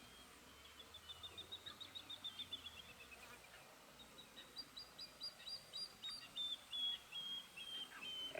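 A bird singing faintly: a rapid run of short high chirps that falls in pitch, then a second, slower run of chirps.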